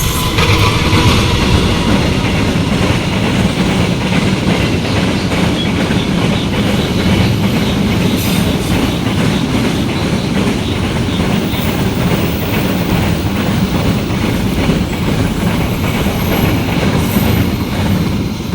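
Freight train of Pertamina fuel tank wagons passing close by, its wheels clattering over the rail joints in a rapid, even clickety-clack that eases off near the end.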